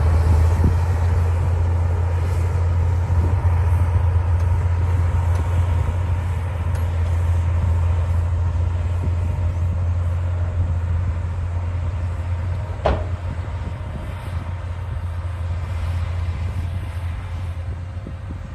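D60 bulldozer's diesel engine running steadily with a deep drone. A single sharp knock comes about two-thirds of the way through.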